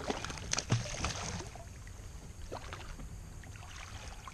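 Gear being handled aboard a fishing kayak: a few sharp knocks and clicks in the first second and a half, then only a low, steady background rumble.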